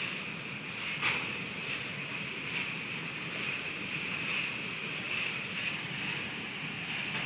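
CSX freight train rolling slowly over a grade crossing: a steady rumble and hiss of wheels on rail that swells every second or so, with one sharp clank about a second in.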